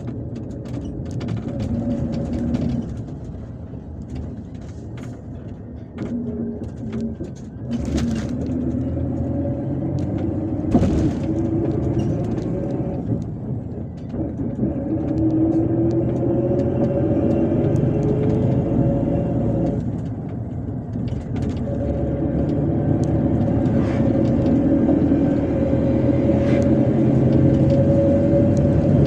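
Inside a moving MAZ-257 bus: engine and drivetrain drone with road noise. The engine note climbs twice as the bus picks up speed, dipping briefly in between, with a few sharp knocks and rattles from the body about 8 and 11 seconds in.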